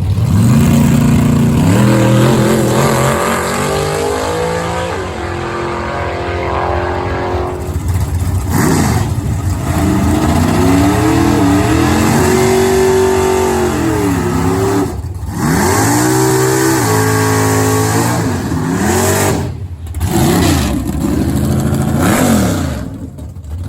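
Drag racing car engine revving hard, its pitch climbing in steps as it runs up through the gears, then rising and falling again and again through the rest of the stretch.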